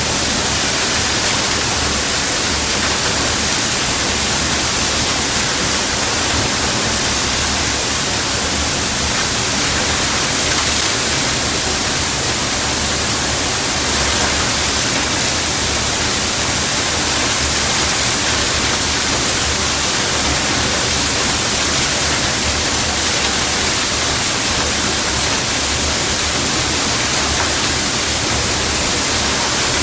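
Waterfall pouring close by: a loud, steady rushing with no breaks.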